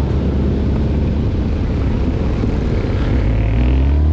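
Motorcycle engines rumbling steadily, with one engine revving up, rising in pitch, near the end.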